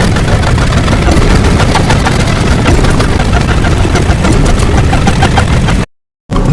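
A loud, dense, engine-like rumble packed with rapid clicking, which cuts off abruptly shortly before the end and then resumes.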